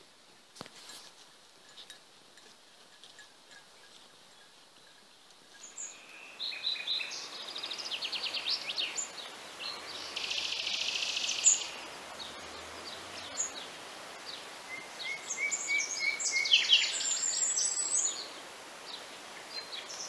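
Birds singing in a mix of fast trills and short chirps, starting about six seconds in after a quiet opening.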